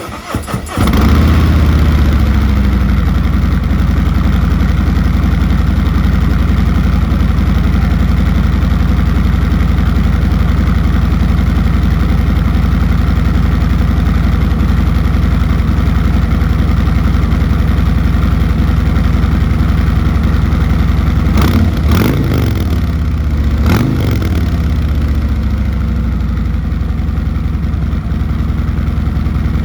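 Harley-Davidson Road Glide Special's Milwaukee-Eight V-twin fires up and settles into a steady, loud idle. Two quick throttle blips come about 22 and 24 seconds in, each rising and falling back to idle.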